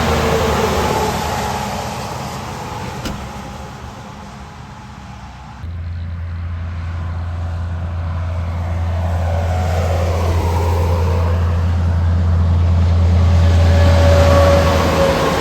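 Vehicles passing on a highway, each louder as it comes and falling in pitch as it goes by: one just after the start and another near the end. About six seconds in, a steady low rumble starts suddenly and runs under the second pass.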